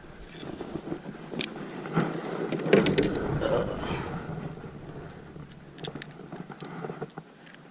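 Handling noise close to the microphone: scattered light clicks and knocks with rustling, busiest around the second to fourth second and fading after.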